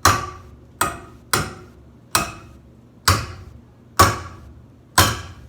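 Seven hard knocks at irregular intervals of roughly a second, each ringing briefly like metal, as parts of an old ceiling fan are struck.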